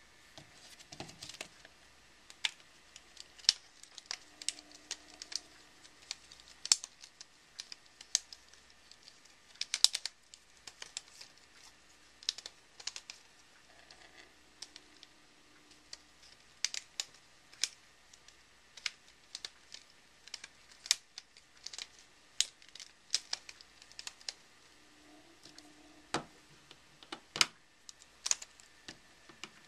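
Plastic segments of a Rubik's Snake clicking as they are twisted into new shapes: many sharp, irregular clicks, some in quick runs.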